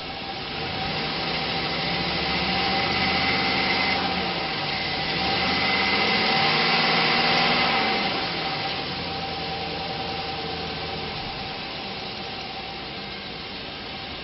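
2004 Chevrolet Silverado 2500's 6.0-litre gasoline V8 running. It is revved up twice, each rev held a couple of seconds, then drops back to a steady idle.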